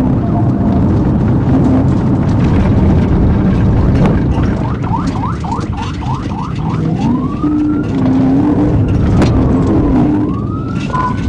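Patrol car siren during a high-speed chase: about halfway in it runs a quick series of rapid yelp sweeps, then switches to a slow rising-and-falling wail. Loud engine and road noise runs underneath.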